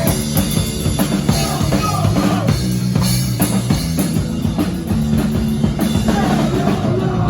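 Rock music with a pounding drum kit, bass drum and snare, and bass and guitar, loud and steady.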